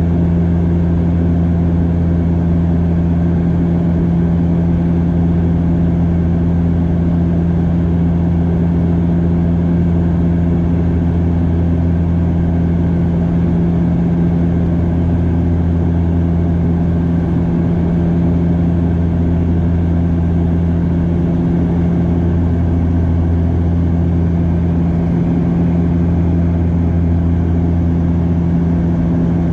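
Steady drone of a Bombardier DHC-8 Q400's turboprop engines and propellers heard inside the cabin: a low hum with several steady tones over a rushing hiss.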